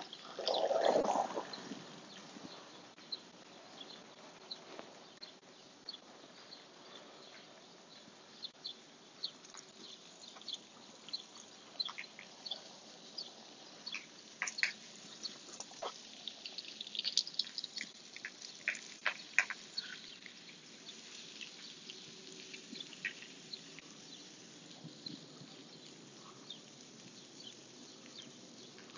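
Small birds chirping in short, scattered calls over faint steady outdoor background noise, with a brief louder noise about a second in.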